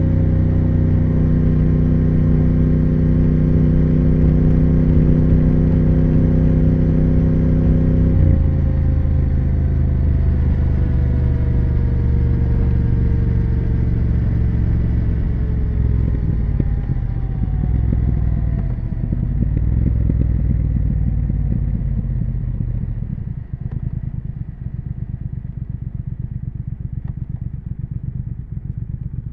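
Triumph Speed Twin 1200 parallel-twin engine and exhaust under way: it holds a steady note, then comes off the throttle about eight seconds in and the revs fall slowly. About two-thirds of the way through it settles to a slow, pulsing low-rev burble, and it begins to pick up again right at the end.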